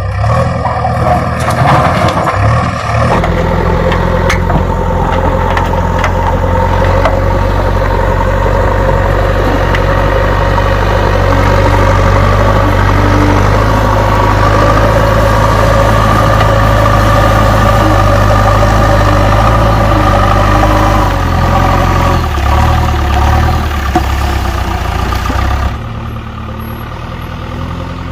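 JCB backhoe loader's diesel engine running loud and steady under working load. It varies unevenly near the start and again late on, then drops suddenly to a quieter, lower idle near the end.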